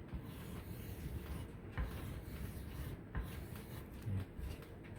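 A crayon rubbing and scratching on paper as oval shapes are drawn, with a few light knocks.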